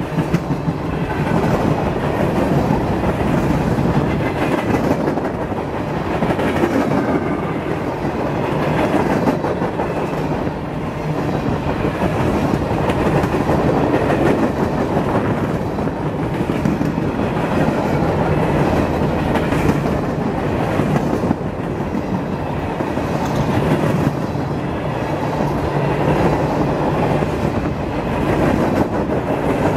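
Empty covered hopper cars of a freight grain train rolling past close by: steel wheels running on the rails with a steady rumble and repeated clicks as the wheels cross rail joints.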